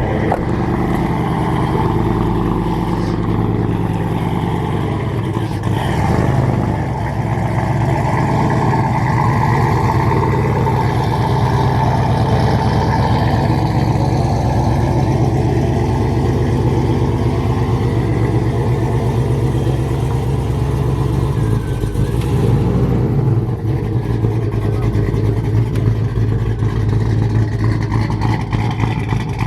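A car being driven: the engine runs steadily under road noise, and its note shifts a little over two-thirds of the way through.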